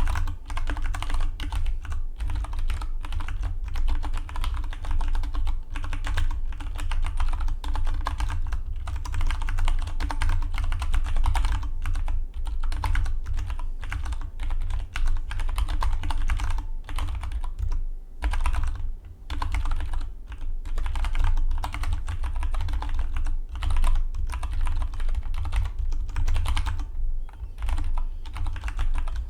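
Fast, continuous typing on a Dygma Defy split mechanical keyboard: a dense stream of key clicks, with a short pause about eighteen seconds in.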